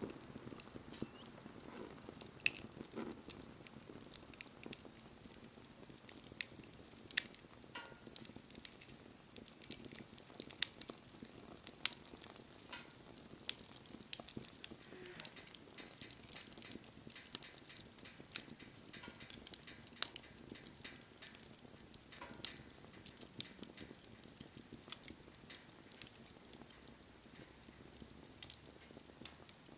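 Wood fire crackling, with irregular sharp pops over a soft hiss.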